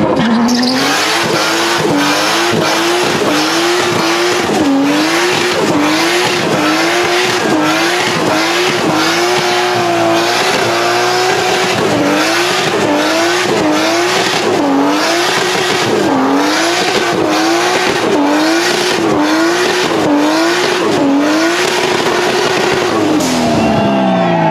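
Toyota Supra MK4's 2JZ-GTE straight-six held at high revs, its pitch rising and dipping about once a second as the throttle is worked, over steady tyre noise. Near the end the revs fall away.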